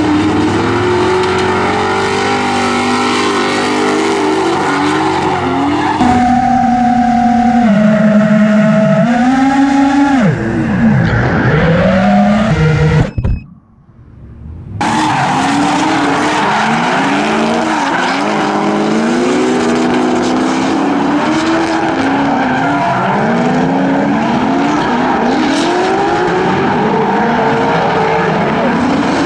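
Drift cars' engines revving up and down on the throttle, with tyre squeal; several engines overlap near the end, as in tandem runs. The sound drops out briefly about halfway through.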